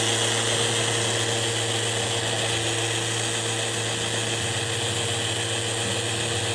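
Power tool running steadily with a constant hiss and hum, from work on a cracked sink countertop.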